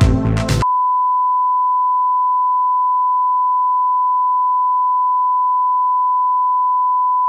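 Electronic music cuts off abruptly under a second in and gives way to a steady, unbroken 1 kHz sine-wave reference tone at a constant level, like a broadcast test tone.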